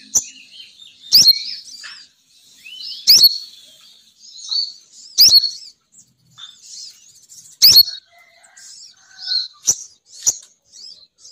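Female sogon (crimson sunbird) calls played as a bird lure: sharp, high sweeping notes about every two seconds, with softer twittering between them.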